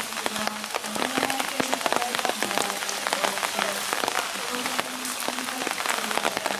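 Rain pattering steadily, a dense stream of close, sharp drop hits.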